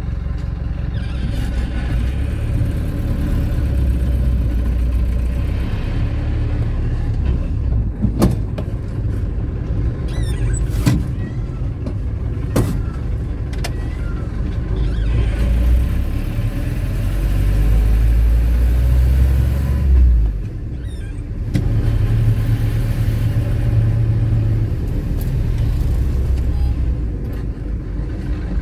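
Car driving: steady low engine and road rumble, with a few sharp knocks about eight, eleven and thirteen seconds in and a brief drop in the rumble about twenty seconds in.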